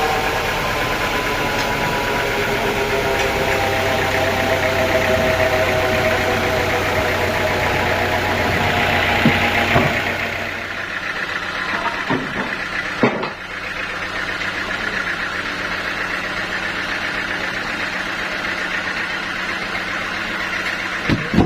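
Sawmill saw cutting through a teak log, a loud hiss with a whine, for about the first ten seconds. The cut then ends and the mill's drive keeps running with a steady hum. A few sharp knocks follow, a couple about halfway and one near the end.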